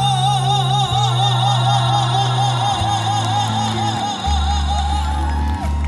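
A female vocalist holds the last word of the chorus line as one long high note with a wide vibrato over live band backing. The note trails off about four and a half seconds in while the band plays on.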